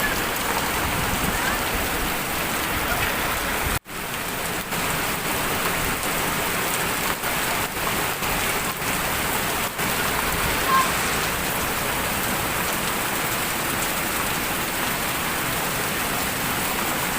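Heavy rain falling steadily, a dense, even hiss, broken by a momentary cut in the sound about four seconds in.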